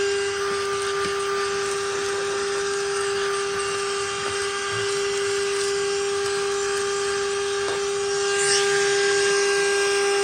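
Hercules Dual Power portable vacuum running at full power, a loud racket of steady high motor whine over rushing air. A brief hiss of sucked-up air rises about eight seconds in.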